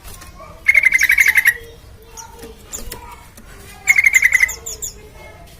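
Yellow-vented bulbul (trucukan) singing: two loud phrases of rapid, evenly repeated notes, one about a second in and another about four seconds in, with softer scattered chirps between.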